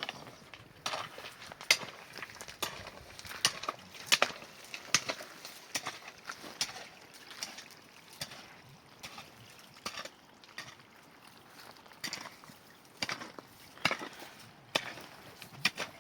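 An irregular series of sharp knocks and taps, about one or two a second, some much louder than others.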